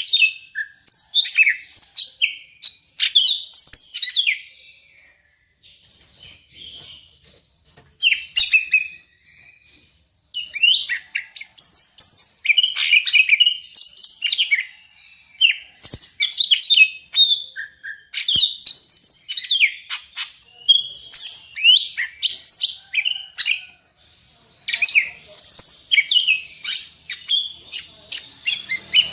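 Greater green leafbird (cucak ijo), Sumatran "Medan" type, singing a fast, varied song of chirps, trills and whistles packed with imitated phrases ("full isian"). The song breaks off briefly a few times.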